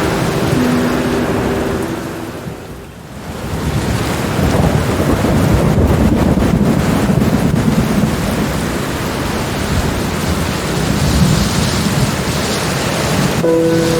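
Steady rain with rolling thunder; the rumble swells in about four seconds in and eases off near the end. Soft sustained music notes sound at the start and come back just before the end.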